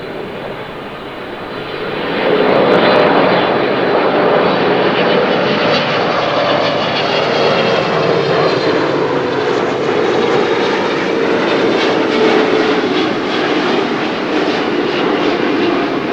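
Boeing 777-300ER's GE90 jet engines as the airliner passes close on its landing approach, growing loud about two seconds in and holding, with a tone that falls slowly in pitch as it goes by.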